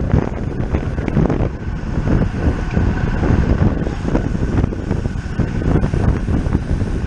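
Wind buffeting the microphone of a camera riding on a racing bicycle at speed, a steady rumbling rush.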